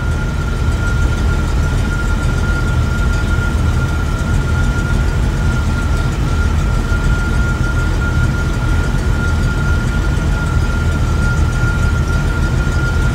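Truck engine running steadily, heard from inside the cab: a constant low rumble with a steady high-pitched tone over it.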